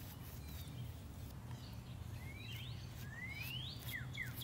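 Birds calling in the background: two rising whistled calls, then a fast run of short falling chirps near the end, over a steady low background hum.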